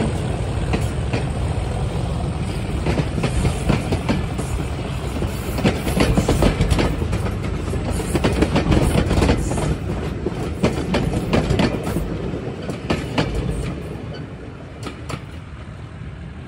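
Diesel-hauled passenger train passing close by, its coaches' wheels clicking rapidly over the rail joints. The sound dies away near the end as the train moves off.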